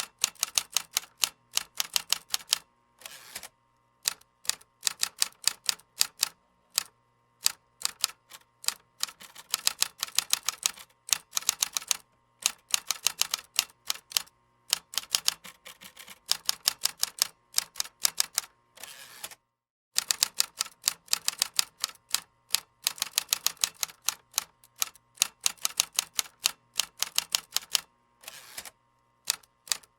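Typing on a computer keyboard: fast runs of key clicks in bursts, broken by short pauses, with one longer pause about two-thirds of the way through.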